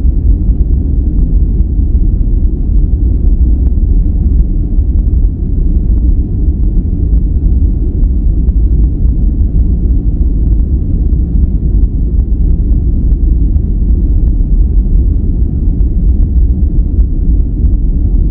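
Loud, steady noise track sold as white noise, but deep and rumbling in character: nearly all its energy sits in the lows, with little hiss above. It runs unchanged, without any pattern or event.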